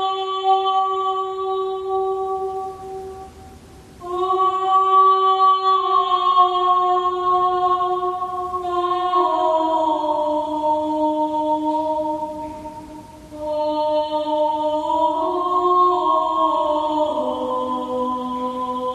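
Slow, meditative chant-like music of long held notes in a few voices at once, shifting pitch in steps, with two short pauses.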